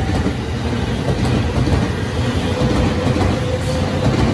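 JR East E231-series electric commuter train running past, its wheels rumbling and clattering on the rails. A faint steady tone comes in about halfway through.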